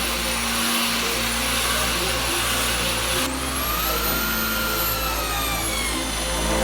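High-speed electric power tool motor running with a loud hissing rush and a thin high whine. About halfway through it starts again, and its whine slowly drops in pitch until it stops.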